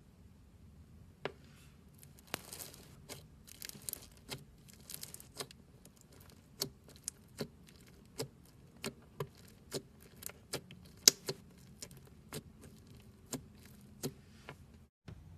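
Foam-bead slime (floam) being squeezed and worked by hand, its foam beads giving sharp crackles and pops, about one or two a second. A softer crinkling comes about two to five seconds in.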